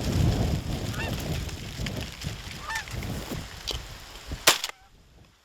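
Wind rumbling on the microphone while a goose honks a few times, then a single loud shotgun shot near the end.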